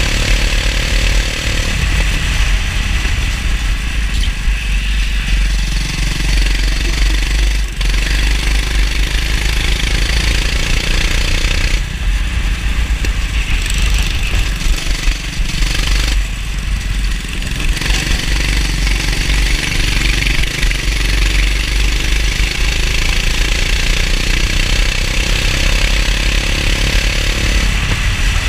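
Kart engine running hard on track, its note dropping briefly about twelve seconds in and again around sixteen to eighteen seconds in as the throttle comes off for corners, with a steady hiss of wind and spray over it.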